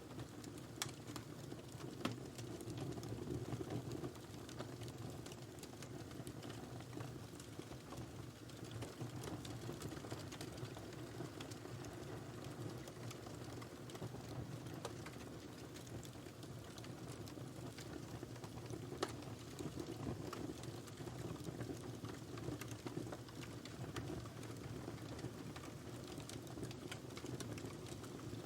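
Wood fire burning in a fireplace: a steady low rush of flame with irregular small crackles and pops, and a few sharper pops.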